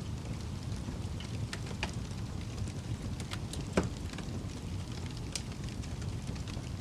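Wood fire burning in a fireplace: a steady low rumble of flame with scattered sharp crackles and pops, one louder pop a little past halfway.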